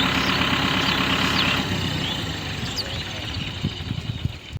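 Tractor diesel engine running steady, its sound growing quieter and duller about a second and a half in, then cutting off abruptly at the very end.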